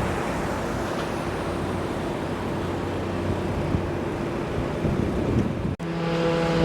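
Steady engine and traffic noise with wind buffeting the microphone. Near the end the sound drops out for an instant and comes back with a different, steadier engine hum.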